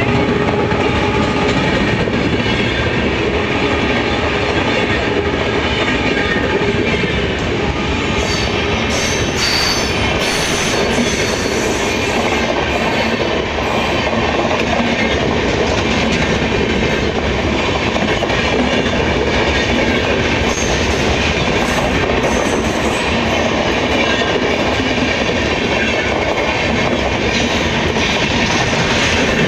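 Departing passenger train rolling past close by: a steady rumble of wheels on rail with clickety-clack over the rail joints. Sharp high clicks and squeals from the wheels come in clusters about eight seconds in and again about twenty seconds in.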